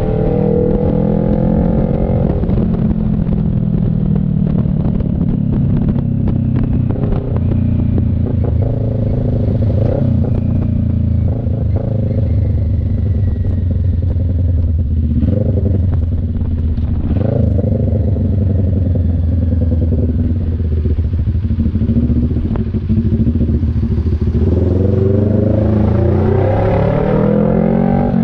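CF Moto NK400 two-cylinder motorcycle engine running under way. The revs drop over the first couple of seconds, stay low and steady through the middle with some light clatter, then climb again near the end as the bike accelerates.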